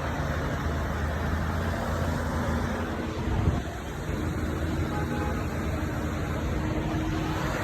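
A motor vehicle engine running steadily under a constant rushing noise, with a brief dip about three and a half seconds in.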